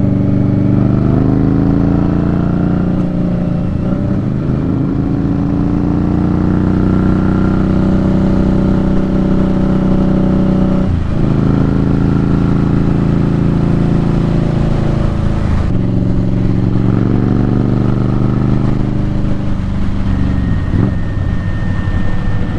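Indian Scout Bobber Twenty's V-twin running through Vance & Hines slip-on exhausts under way, heard from the rider's helmet. Its pitch climbs slowly, breaks briefly about halfway through and twice more later, and climbs again each time, as when accelerating up through the gears.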